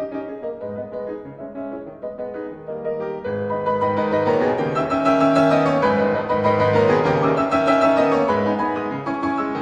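Calm piano music, growing louder and fuller about three seconds in.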